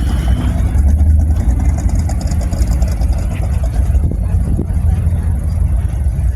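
A car engine running, a steady low rumble.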